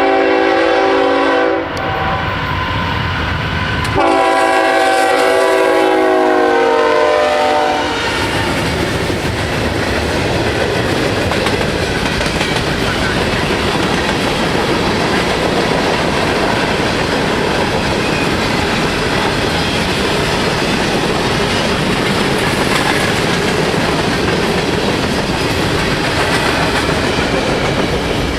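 Norfolk Southern freight train's locomotive air horn sounding a chord in two blasts, the second longer and bending down in pitch at its end. Then the train's cars roll past steadily with a clickety-clack of wheels over rail joints.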